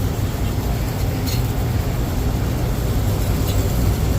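Rooftop HVAC unit running with a steady low hum, a couple of faint ticks about a second in and near the end.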